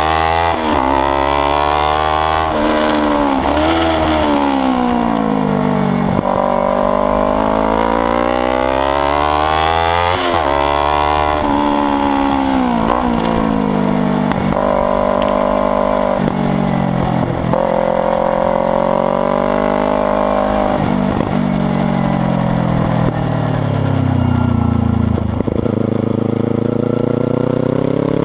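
Kawasaki Ninja 300's parallel-twin engine running loud, revving up and down repeatedly: pitch climbs with sudden drops at the gear changes, then falls away when the throttle is closed, several times over.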